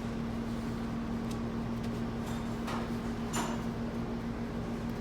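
A steady low hum, with two light clinks of metal transmission parts being handled, the second with a short ring, about halfway through.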